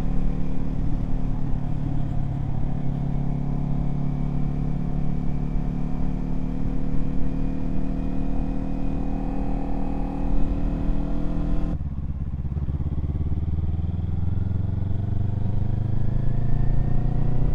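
Kawasaki Z400's parallel-twin engine running under way, heard from the rider's position with some wind noise. Its note climbs slowly, falls sharply about twelve seconds in, then climbs steadily again as the bike picks up speed.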